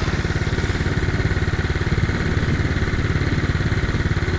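Dirt bike engine running steadily at a low, even speed, with a rapid, regular pulse and no revving.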